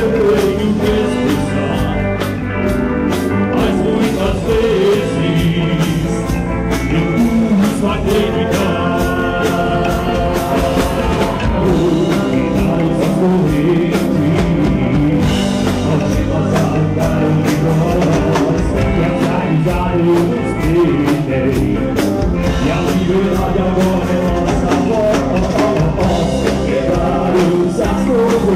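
Live rock band playing a song: drum kit, electric guitar and bass, with a singer's vocals over a steady drum beat.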